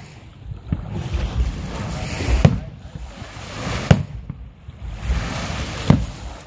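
Aerial firework shells bursting over open water, each a sharp boom: a small one about a second in, then three louder ones about two and a half, four and six seconds in. Between them, a steady rushing of wind on the microphone and lake waves.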